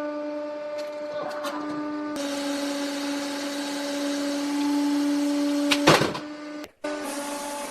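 A small machine running with a steady hum. An even hiss joins about two seconds in, and there is a sharp knock near six seconds. The sound drops out briefly just before the end.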